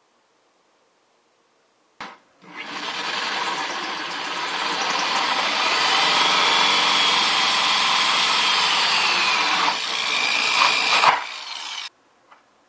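Electric drill with a hole saw cutting through a plastic bucket: a click, then about nine seconds of loud motor whine and cutting noise, the pitch sagging and recovering under load, stopping suddenly.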